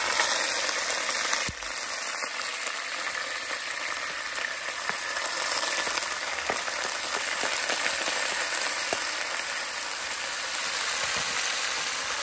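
Onions frying in hot oil in a cooking pot: a steady sizzle with small crackles, and a single knock about a second and a half in.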